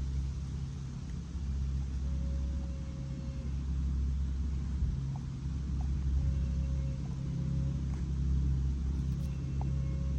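Steady low mechanical rumble with a constant hum, like an engine running at idle, with a few faint short tones over it.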